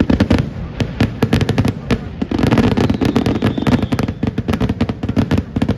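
Fireworks going off in a rapid barrage of sharp bangs and crackles, several a second, starting abruptly and stopping shortly before the end.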